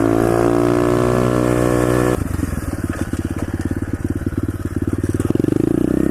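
Single-cylinder four-stroke engine of an SSR 125cc pit bike being ridden. It pulls under throttle with a slowly rising pitch, then the throttle is shut about two seconds in. The engine drops to a low, pulsing run with each firing stroke audible, and picks up a little again near the end.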